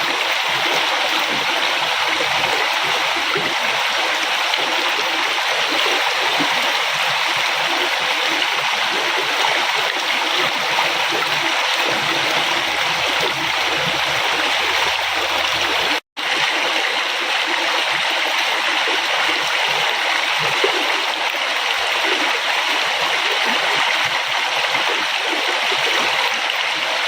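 River water flowing and splashing steadily over stones, a continuous rushing sound. It cuts out for an instant about two-thirds of the way through.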